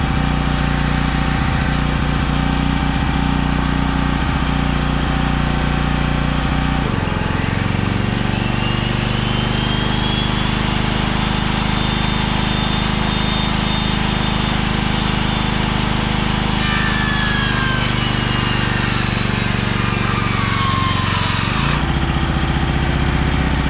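Small Champion portable generator running, then bogging down to a lower pitch about seven seconds in as the DeWalt table saw is switched on; the saw motor's whine climbs slowly, holds, then winds down, and the generator picks its speed back up near the end. The generator is too small to power the table saw properly.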